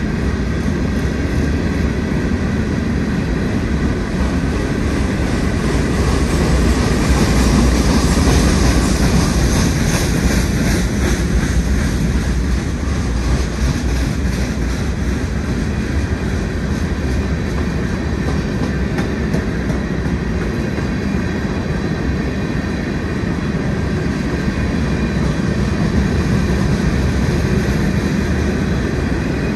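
Freight train of hopper cars rolling past close by: a steady, loud rumble and rattle of steel wheels on the rails, with faint repeated clicking from the wheels over the track.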